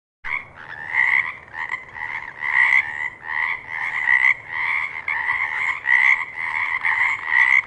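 A frog croaking over and over, about two croaks a second. The calls start suddenly just after the beginning.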